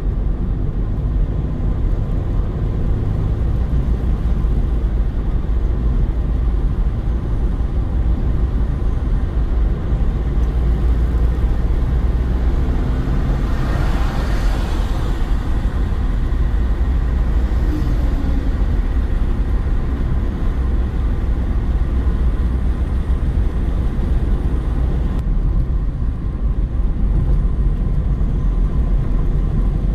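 Car driving at a steady pace: a continuous low road-and-engine rumble, with a short swell of hiss about halfway through.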